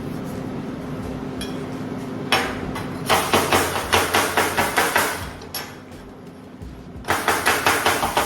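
Hand scraper knocking plasma-cut dross (molten slag stuck to the metal) off the back of a metal plate: two runs of rapid scraping strokes, about five a second, starting about three seconds in and again near the end, over a steady hum.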